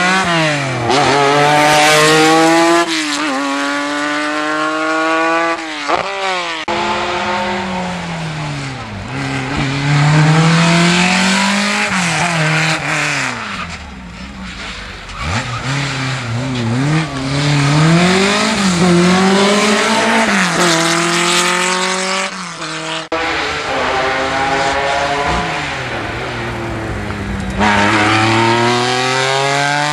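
Rally car engines at full throttle, revving up through the gears and dropping back between shifts and lifts, with tyre squeal. The engine sound changes abruptly twice, as different cars pass in turn.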